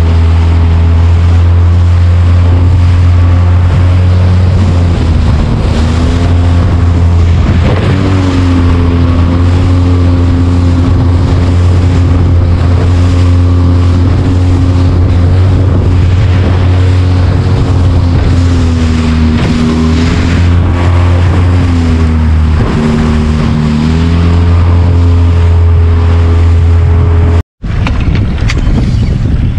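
Small boat's outboard motor running under way, its pitch dipping and rising a few times as the throttle changes. Near the end it cuts off abruptly and wind and water noise follow.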